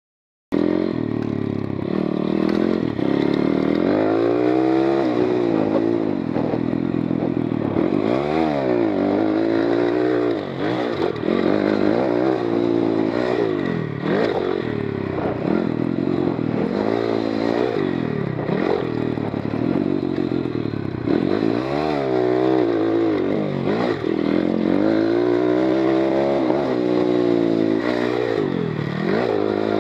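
GIO X33 oil-cooled 140cc pit bike's single-cylinder four-stroke engine under hard riding, its pitch climbing and dropping back again and again as the throttle is opened and closed. It starts abruptly about half a second in.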